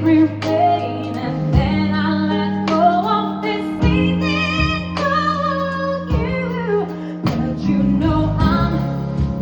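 Live jazz-pop band playing a slow song, with a female voice singing over guitar and sustained bass notes.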